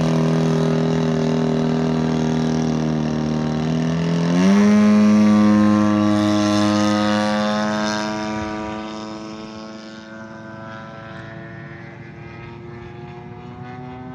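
RC model airplane engine and propeller running steadily, then throttled up about four seconds in with a quick rise in pitch. After a few seconds at full power the sound fades and dulls as the plane moves away.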